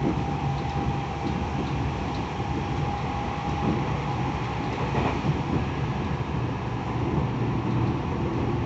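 Tokyo Metro 10000 series electric train running, heard from inside the car: a steady rumble of wheels on rail, with a faint high whine through the first few seconds.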